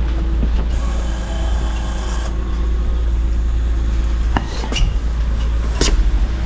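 Vehicle lift raising a car: a steady low motor hum, with a few sharp metallic clicks in the second half.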